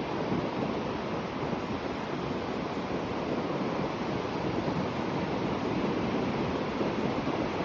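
Sea waves breaking and washing on the shore in a steady, continuous surf noise, with some wind on the microphone.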